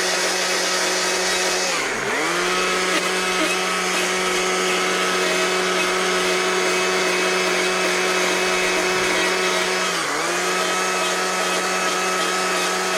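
Carving chainsaw's small two-stroke engine running at high speed while cutting fur texture into wood. Its pitch dips briefly twice, about two seconds in and near the end, as the chain loads in the cut.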